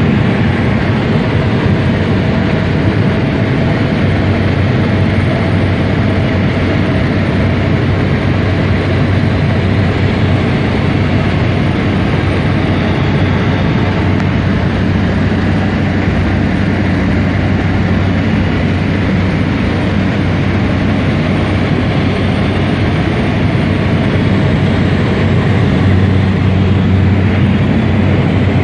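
Steady, loud cabin noise of a private jet in flight, a continuous roar of engines and airflow with a low hum underneath.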